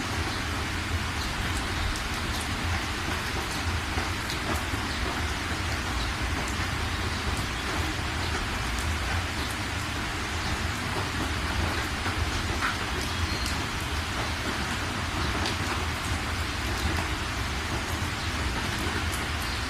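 Steady rain hiss with scattered drop ticks and a low rumble underneath.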